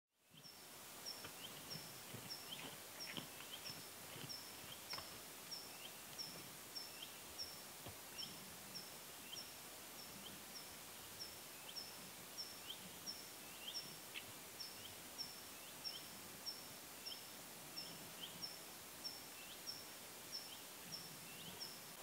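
Small birds calling: one repeats a short high note steadily about twice a second, while another gives short rising chirps in between, over a faint steady hiss of forest ambience.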